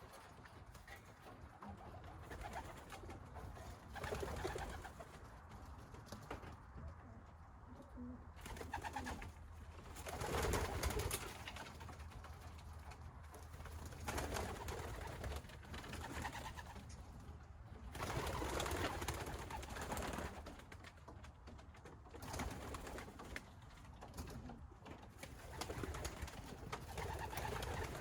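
Racing pigeons cooing in a loft, in repeated bouts a few seconds apart.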